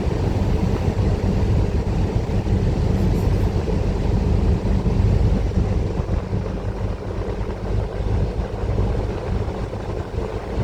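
Bus engine and road noise heard from inside the cabin: a steady low rumble that eases a little after about six seconds.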